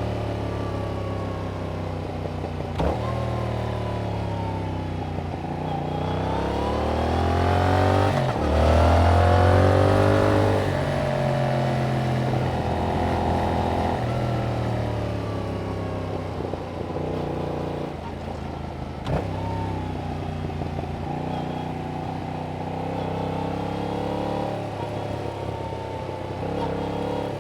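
Yamaha MT-07's 689 cc parallel-twin engine through its stock exhaust, on a ride: the pitch rises and falls with throttle and gear changes, with the loudest climb about eight to ten seconds in. Two short sharp clicks come through, about three seconds in and again near nineteen seconds.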